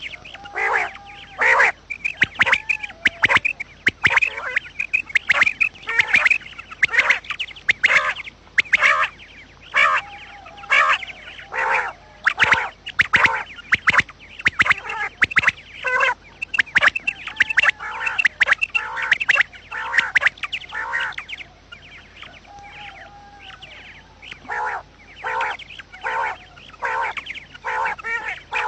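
Quail calling over and over in quick, short, sharp notes, with a brief lull about two-thirds of the way through.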